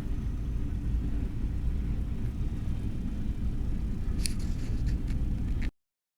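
Freight train rolling past with a steady low rumble, and a few sharp metallic clicks about four to five seconds in. The sound cuts off abruptly near the end.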